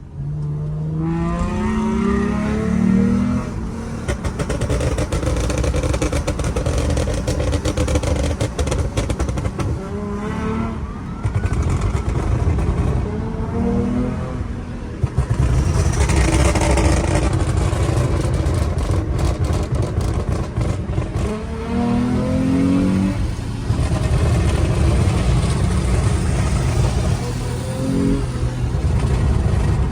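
Toyota Mark X's swapped-in 3.5-litre 2GR-FSE V6 pulling hard in second gear, its pitch rising in several runs to build up the naturally aspirated intake noise. It still has its pre-upgrade exhaust and sounds neither very loud nor very quiet.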